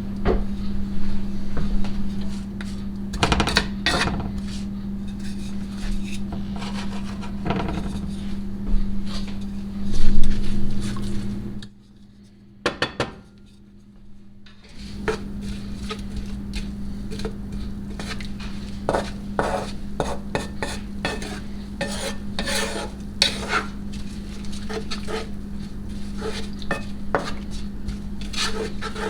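A kitchen utensil stirring, scraping and clinking against a pan or bowl in irregular strokes over a steady low hum. The sound drops out briefly about halfway through.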